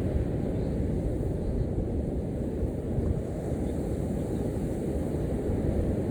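Strong sea wind buffeting the microphone: a steady low rumble that swells and eases, covering the surf.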